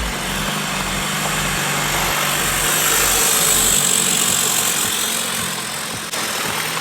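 An off-road vehicle's engine running steadily, growing louder to a peak about three seconds in and then easing off.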